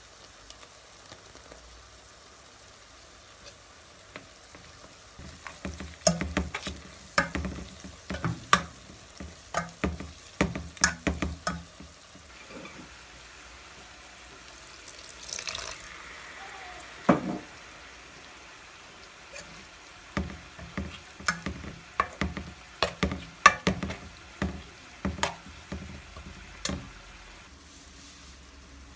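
Chicken mince frying in a pan and being stirred, the spoon knocking and scraping against the pan in two spells of quick repeated strikes, with a short hiss between them.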